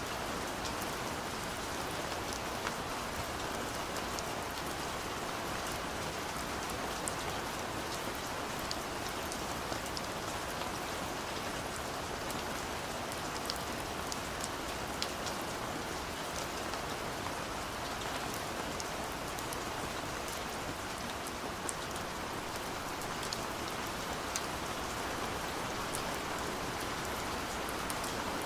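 Steady rain falling, an even hiss dotted with the sharp ticks of individual drops striking a surface.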